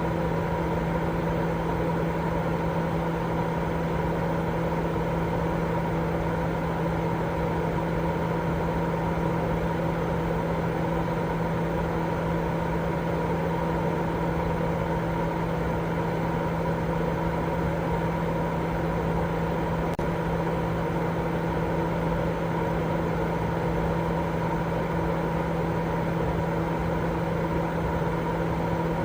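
Continuous baby-sleep white noise: an even, unchanging rush with a steady low hum running through it.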